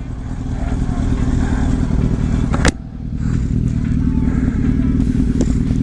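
Motorcycle engine running under way with wind rush, the sound building up, then a sharp click and a brief drop about two and a half seconds in before it builds again.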